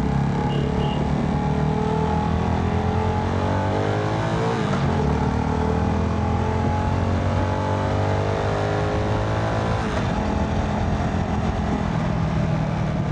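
Motorcycle engine heard from the rider's seat, accelerating through the gears: its pitch climbs, breaks at an upshift about five seconds in, climbs again, and changes once more near ten seconds before running steadily at lower revs.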